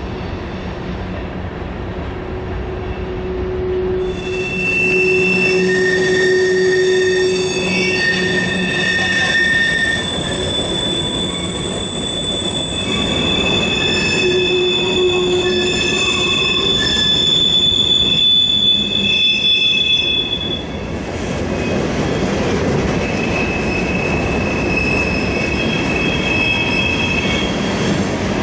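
Train rolling past with its steel wheels squealing against the rails, typical of flange squeal on a mountain curve. Several shrill squeal tones come and go over the steady rolling noise, which gets louder about four seconds in.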